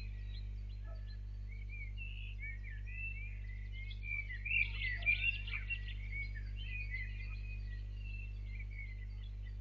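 Several birds chirping and singing in short quick phrases, busiest about halfway through, over a steady low electrical hum.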